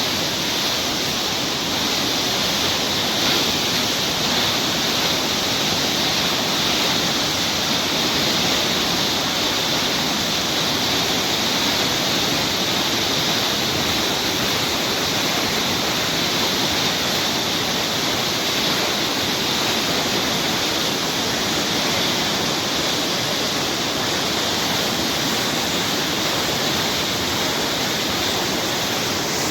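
River running high after heavy rain, its water rushing with a steady, loud, unbroken sound.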